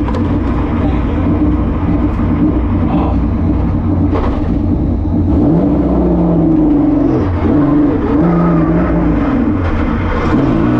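Car engine running loudly and steadily, its pitch dipping and rising several times from about six seconds in.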